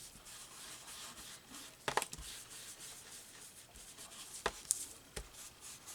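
Hands rubbing and handling paper on a work surface, a soft dry rustle with a few light taps or clicks along the way.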